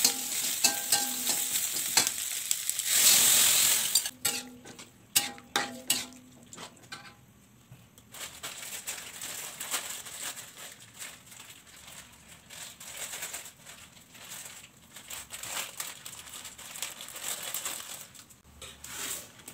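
Vegetables stir-frying in an aluminium wok, sizzling, with a metal spatula scraping and clicking against the pan. About three seconds in there is a loud surge of sizzling. After a few more sharp clicks of the spatula, a softer, uneven crackle carries on to the end.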